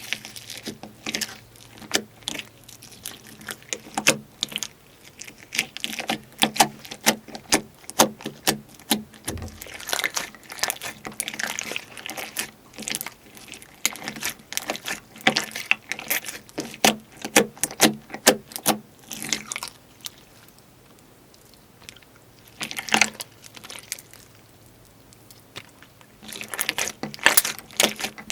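Slime being squeezed and poked by hand, making quick runs of sticky clicks and pops. The clicking eases off for a few seconds about two-thirds through, with one short burst in the lull, then picks up again near the end.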